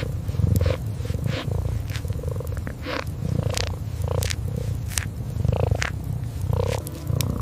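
Kitten purring in a steady low rumble, with frequent sharp crackles and pops from a wood fire over it.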